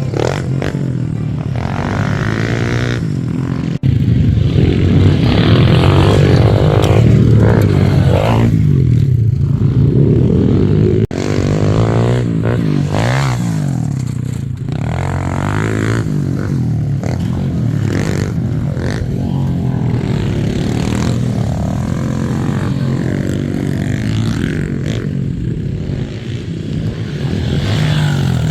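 Dirt bike engine revving up and down while riding, its pitch rising and falling again and again. The sound breaks off abruptly twice, and louder stretches follow.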